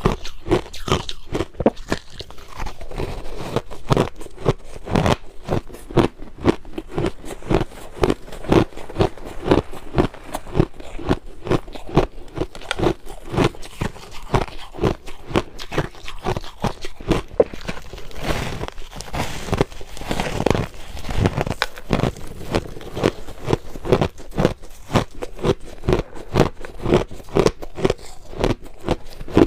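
A person biting and chewing crushed ice, a steady run of sharp crunches several times a second.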